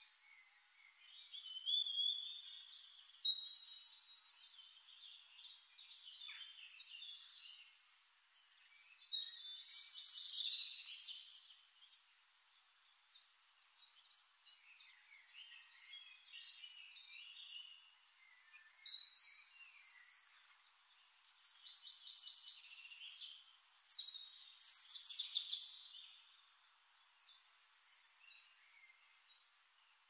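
Songbirds singing: high chirps and trilling whistles in short phrases a few seconds apart.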